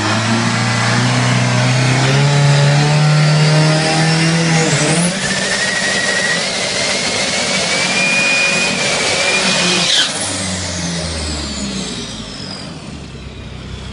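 A race vehicle's engine revving up over about five seconds, then a high whine that climbs slowly for another five seconds. About ten seconds in it cuts off with a sharp pop, and falling whines die away over a lower engine note.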